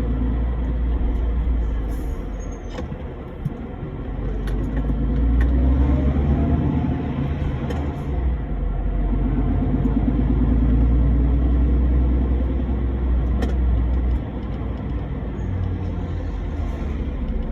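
Truck engine and road noise while driving: a deep, continuous rumble that eases about three seconds in and swells again later.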